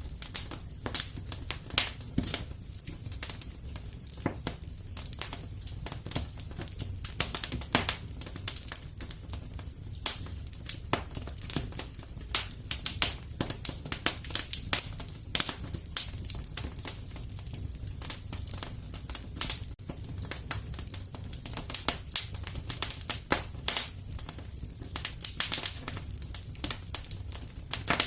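Wood fire crackling in a fireplace: irregular sharp pops and snaps, several a second and some louder than others, over a steady low rumble of the flames.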